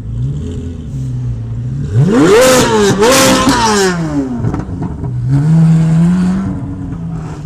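Truck engine being revved: two hard revs in quick succession about two seconds in, dropping back, then a shorter, milder rev before it settles to idle.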